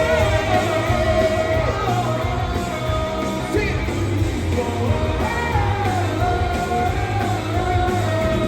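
Rock band playing, with electric guitar and a driving low end under a long held sung note whose pitch wavers.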